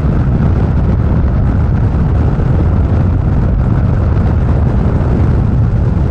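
Harley-Davidson motorcycle at freeway speed: a loud, steady low rumble of engine and wind on the microphone.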